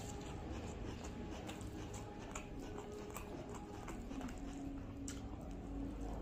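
Close-up eating sounds of rice and fish curry eaten by hand: scattered wet mouth clicks and chewing, with fingers squishing and mixing rice on the plate. A low steady hum comes in for the last couple of seconds.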